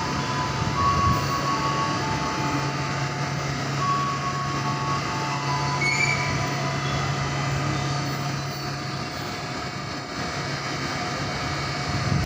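A train running through a station: continuous rail noise with a steady low hum and faint high tones. The hum drops away about nine seconds in and the sound eases off toward the end.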